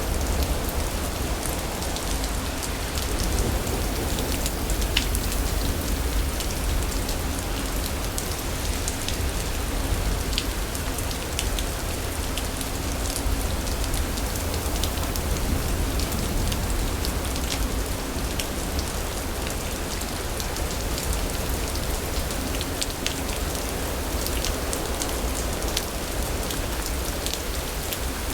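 Steady rain falling on surfaces, a constant hiss dotted with many sharp individual drop ticks, over a steady low rumble.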